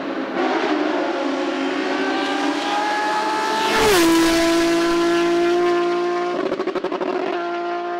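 Hillclimb race car under full throttle passing close by: the engine's pitch climbs as it approaches, peaks at its loudest about four seconds in, then drops sharply as it goes past and runs on at a steady pitch, with a stretch of fluttering, pulsing engine note near the end.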